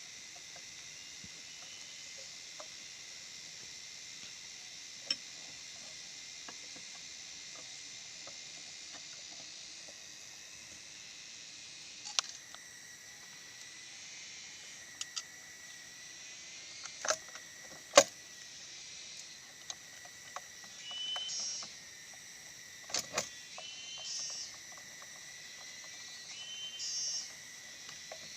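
Steady high-pitched chirring of insects, with a few sharp isolated clicks scattered through it and short high calls near the end; no engine is running.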